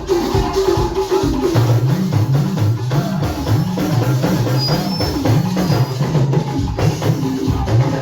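Church praise music: drums and hand percussion keep a steady beat under a moving bass line.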